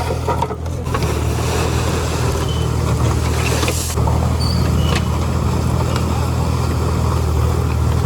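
Mini backhoe loader's engine running steadily, with a few faint clanks over it.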